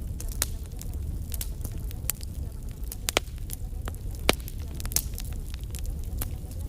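Wood fire crackling in a fireplace: a steady low rumble with irregular sharp pops, the two loudest about three and four seconds in.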